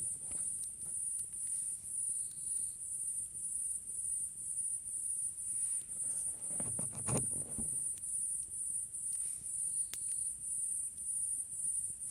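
Night chorus of crickets: a steady high-pitched trill pulsing evenly at about two to three pulses a second. A short low rustle or thump comes about seven seconds in.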